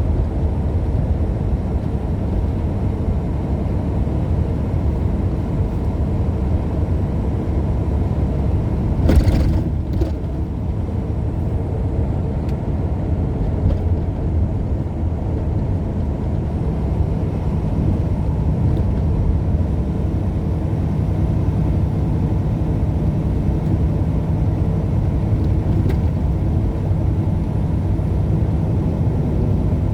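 Steady engine and road rumble of a moving truck, heard from inside the cab, with a brief whoosh about nine seconds in.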